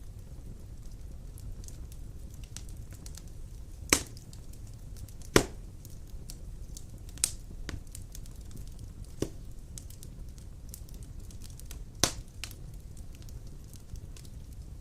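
Wood fire burning in a stone fireplace: a steady low rumble with scattered crackles and a few loud, sharp pops, the loudest about five seconds in.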